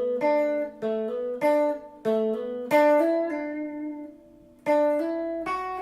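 Guitar playing a lead lick in single plucked notes, with hammer-ons from the D string 7th fret to the 9th and a resolve on the G string 7th. The notes come about two a second, stop for about a second near the middle, then start again.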